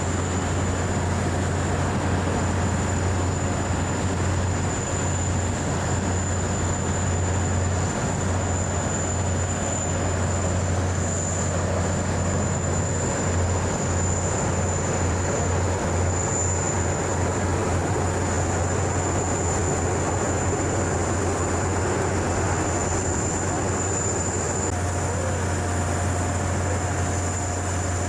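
UAE Air Force military helicopters flying in formation: a steady low drone of rotors and turbines with a thin high whine over it.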